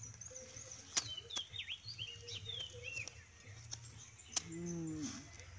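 Small birds chirping in quick falling and rising calls, with two sharp clicks, and a brief low voiced sound that falls in pitch just after the second click.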